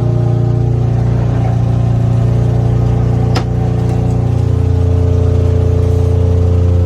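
An engine running steadily, with a single click about three and a half seconds in; a little later its low pitch drops slightly and then holds.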